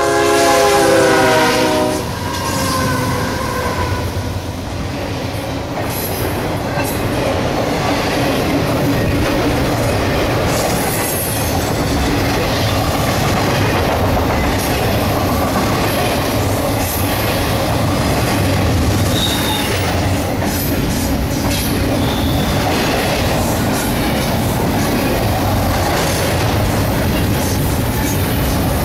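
A CSX GE diesel locomotive's horn sounds close by and stops about two seconds in as the lead units pass. Then comes the steady rumble of double-stack intermodal container cars rolling past on the rails, with scattered wheel clicks over the rail joints and an occasional brief wheel squeal.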